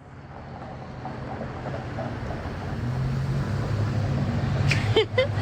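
A car driving, its engine and road noise fading in and growing louder into a steady low drone. A short sharp sound cuts in about five seconds in.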